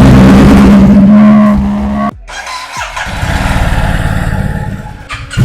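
Sport motorcycle engine revving through an Akrapovič aftermarket exhaust, heard in edited segments: a loud, held high-rev note for about two seconds, then a sudden cut to a lower, rougher rumble, and another cut near the end to a louder, pulsing engine.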